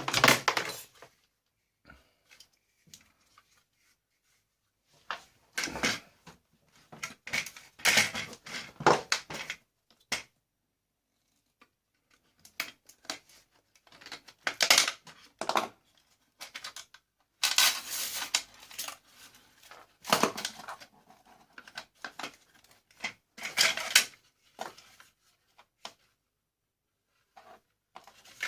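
Intermittent clattering, clicking and knocking of plastic and metal vacuum-cleaner parts being handled and pulled apart by hand, in irregular bursts with short pauses between.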